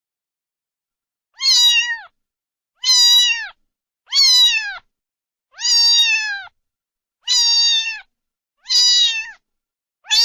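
Domestic cat meowing over and over, one meow about every second and a half, each held briefly and falling in pitch at the end.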